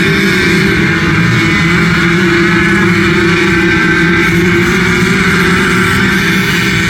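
Motocross motorcycle engines running loud and steady, their pitch wavering up and down as the throttles are worked.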